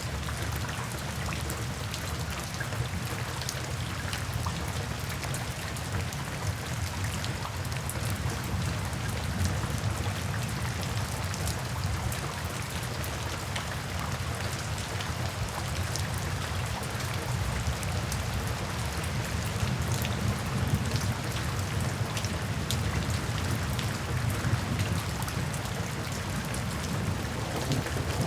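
Steady rain falling, with many individual drops ticking on a surface over a deep, continuous low rumble.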